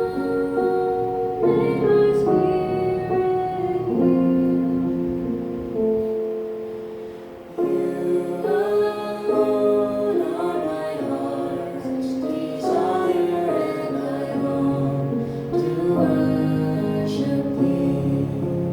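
A woman singing with piano accompaniment. The music thins out and falls quieter about six seconds in, then comes back in strongly a second and a half later.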